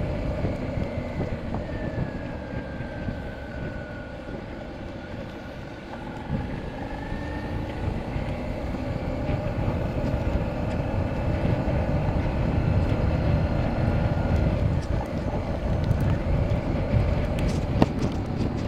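Motorcycle engine under way: the revs and level drop as it slows for the first few seconds, then rise again as it pulls away, over a steady low rumble.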